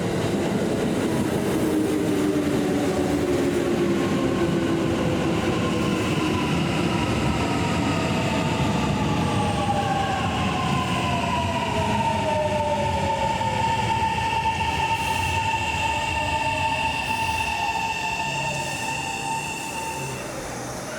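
Kintetsu electric train moving along the platform, a steady rumble of wheels on rail under a motor whine whose tones glide in pitch, one falling and one rising then holding steady, through the middle.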